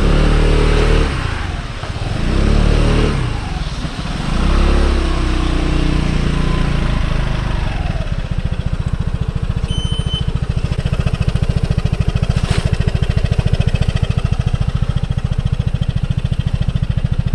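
Piaggio MP3 300 scooter engine revved three times, its pitch falling after each burst of throttle, then settling from about eight seconds in to a steady, evenly pulsing idle.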